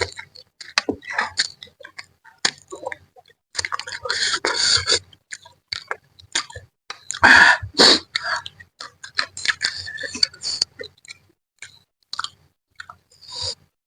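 A person eating a spicy mangut manyung fish head close to the microphone: wet chewing and smacking in short, irregular bursts. There are longer, louder noisy stretches about four and seven seconds in.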